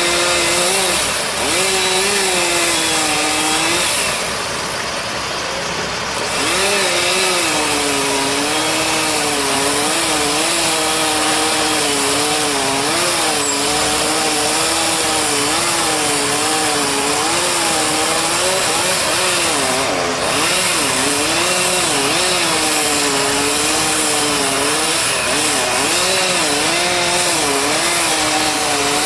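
Chainsaw running steadily at high revs, its pitch wavering up and down, briefly dropping in level about four seconds in before picking up again.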